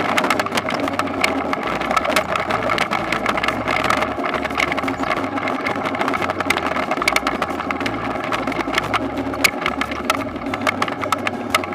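Toyonoki potato harvesting machine running, its engine drone overlaid with frequent sharp clattering and rattling.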